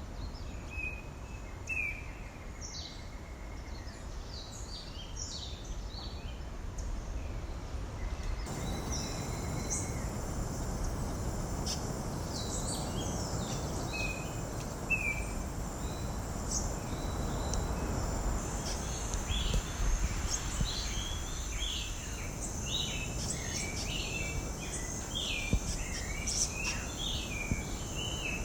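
Several wild birds giving short chirps and calls over steady outdoor background noise. About a third of the way in the background shifts abruptly and a steady high buzz joins, with the calls growing busier near the end.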